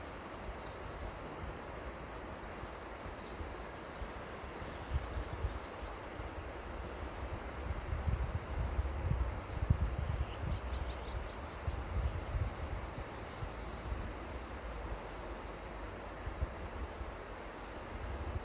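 Seomjin River water flowing with a steady rush. Wind buffets the microphone in gusts, strongest around the middle, and short high chirps repeat every couple of seconds.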